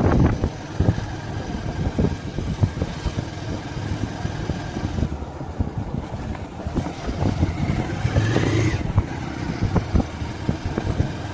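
Motorcycle running on the road, with a steady engine and road rumble and many short knocks and rattles. A short rising whine comes about eight seconds in.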